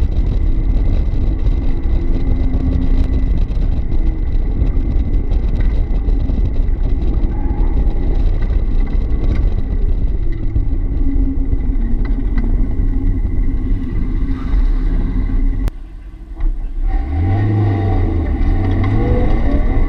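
1990 Mazda Miata's 1.6-litre four-cylinder engine revving up and down while driven hard through an autocross course, heard from the open cockpit with heavy wind rumble on the microphone. The sound drops away briefly about sixteen seconds in, then the engine climbs in revs again.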